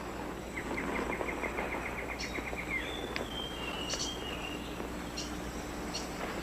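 Forest ambience of bird calls: a fast run of short repeated notes, about seven a second, in the first half, then a falling whistled call about halfway through, with scattered short high chirps over a steady background hiss.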